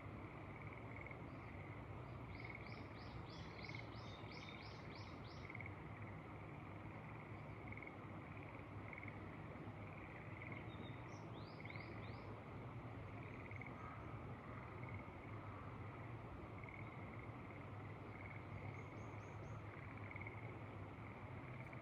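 Faint rice-paddy chorus of frogs, a steady pulsing calling that never stops, over a soft even hiss of wind and field noise. A bird calls twice: a quick run of about ten descending notes a few seconds in, and a shorter run of four about halfway through.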